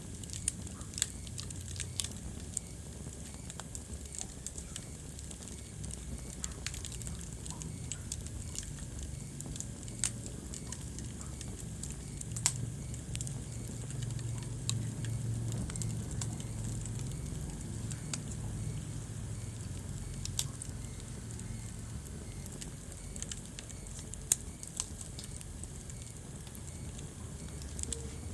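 Wood fire in a fireplace crackling, with irregular sharp pops over a steady low rumble of the flames that swells a little midway.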